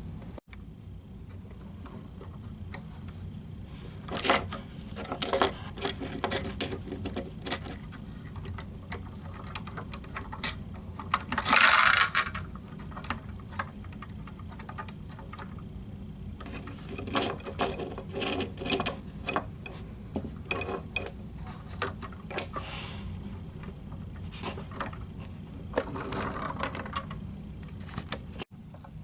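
Lego plastic parts clicking and rattling as the garbage truck's mechanisms are worked by hand, in scattered clusters of small clicks, with one longer scraping rattle about twelve seconds in, over a steady low hum.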